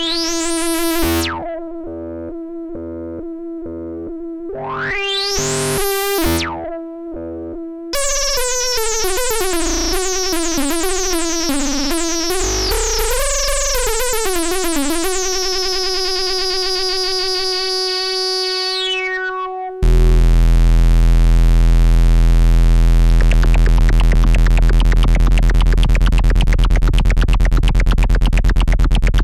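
Arturia MicroBrute analog synthesizer. It plays a held note with its filter sweeping up and back down over a pulsing lower line, then a run of gliding notes that settles on a long held note. About two-thirds in it switches suddenly to a much louder, buzzy low drone.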